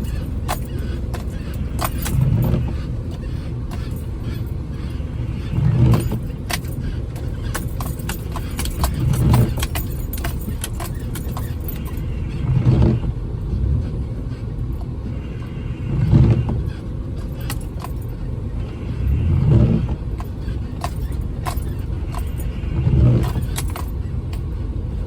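Jeep Wrangler heard from inside the cab, driving slowly over a snowy off-road trail: a steady low engine and drivetrain drone, with a low swell about every three and a half seconds and frequent small rattles and clicks from the cab as it rocks over the ground.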